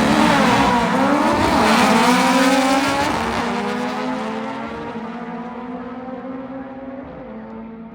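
Volkswagen drag cars' engines at full throttle on a drag-strip run, climbing in pitch as they accelerate and steadily fading as they pull away down the track.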